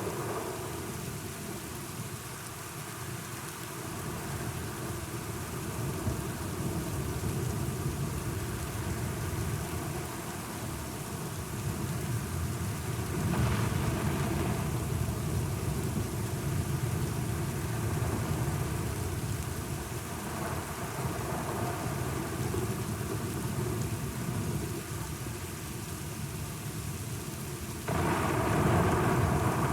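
Steady rain with low rolling thunder that swells and fades several times. The rain becomes suddenly louder near the end.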